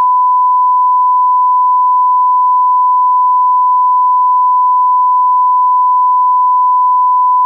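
Steady electronic test tone: one pure, unchanging pitch held at a constant loud level, with nothing else heard.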